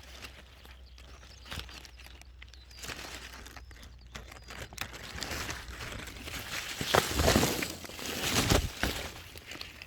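Rustling and crinkling of strawberry plants being handled during picking, growing louder about halfway through, with its loudest rustles near the end.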